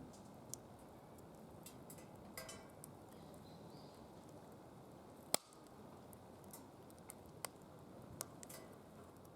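Firewood crackling in a DOD Mecha Moe Fire secondary-combustion fire pit: scattered small ticks and pops, with one sharp loud pop about five seconds in, over a faint steady hiss.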